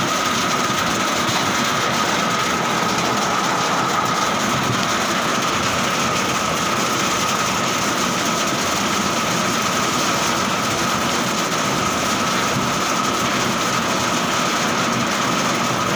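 Heavy rain falling steadily, a dense even hiss, with a steady high-pitched whine running under it.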